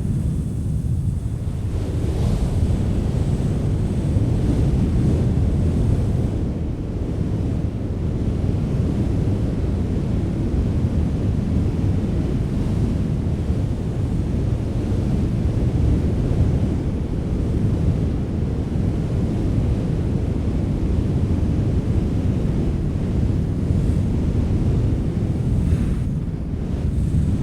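Wind blowing steadily, a deep rushing noise that swells and eases gently without a break.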